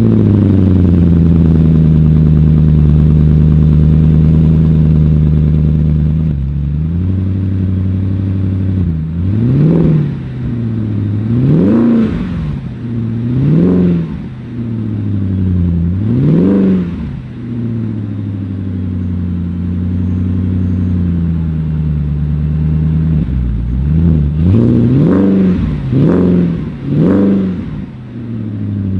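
Weismann MF4 GT's 4.8-litre BMW V8 just after a cold start, holding a high fast idle that drops to a lower idle about six seconds in. It is then revved four times, several seconds apart, and blipped several times in quick succession near the end.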